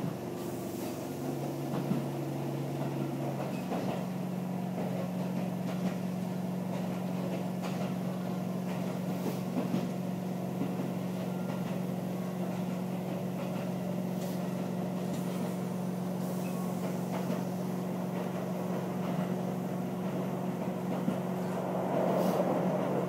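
Passenger train running, heard from inside the carriage: a steady rumble with a low hum that steps up in pitch about three and a half seconds in, and grows a little louder near the end.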